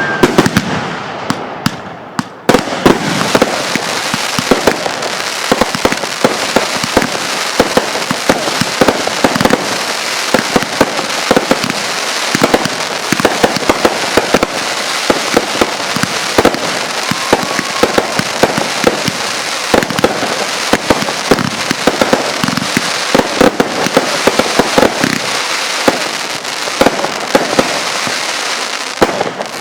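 Fireworks firing in a dense, unbroken barrage: a continuous crackling rattle packed with many sharp bangs, which dips briefly and starts up again about two seconds in.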